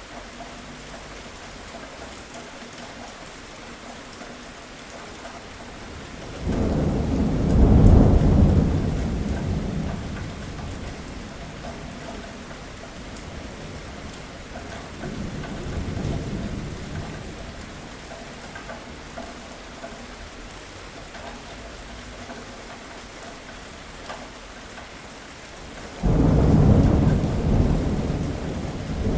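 Steady rain falling, with thunder rumbling over it: a loud clap about six seconds in that rolls away over several seconds, a fainter rumble in the middle, and another sudden loud clap near the end.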